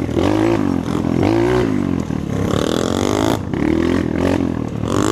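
Single-cylinder trail motorcycle engine revving up and down again and again while riding off-road, its pitch rising and falling about once a second.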